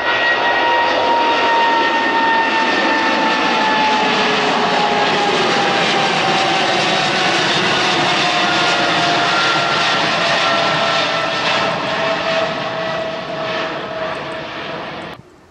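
Jet airliner passing close, its loud engine roar carrying a whine that falls steadily in pitch as it goes by; the sound cuts off abruptly near the end.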